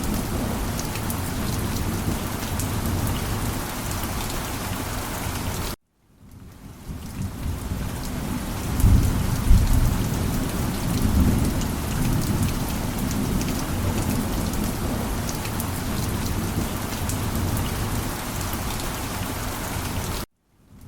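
Steady heavy rain pattering on a surface, with a low rumble of thunder swelling about nine to eleven seconds in. The sound cuts out abruptly twice, about six seconds in and near the end, and fades back in each time.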